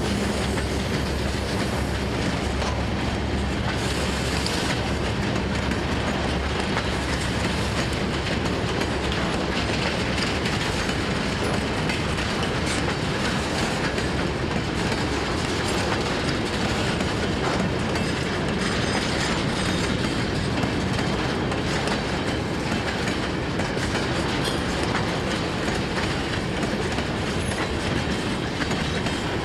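Freight train wagons rolling past at steady speed, their wheels clattering over the rail joints without a break.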